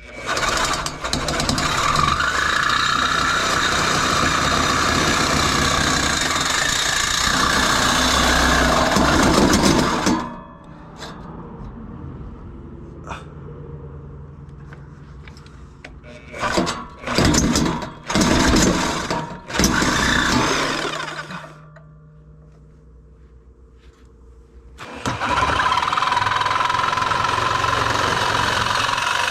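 Power saw cutting through a steel exhaust pipe. It runs steadily for about ten seconds, gives a few short bursts, goes quiet, and starts cutting again near the end.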